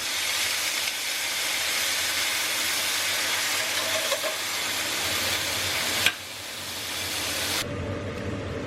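Loud steady hiss that stops abruptly with a click about six seconds in, leaving a fainter hiss.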